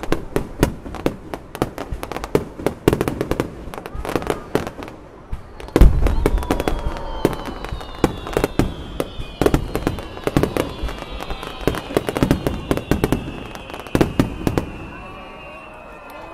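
Fireworks going off: rapid crackling reports and bursts, with a heavy boom about six seconds in, followed by several high falling whistles over continued crackling.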